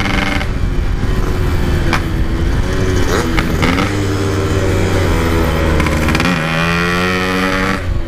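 Yamaha RX-King 135 cc single-cylinder two-stroke engine running on the move through its packing-type exhaust. Its pitch dips about three seconds in, climbs for a couple of seconds, then drops again just after the middle and once more near the end as the throttle and gears change.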